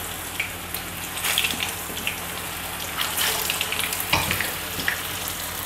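Chicken shami kababs shallow-frying in hot oil in a nonstick pan as more patties are laid in: a steady sizzle with scattered sharp crackles and spits. A single dull knock about four seconds in.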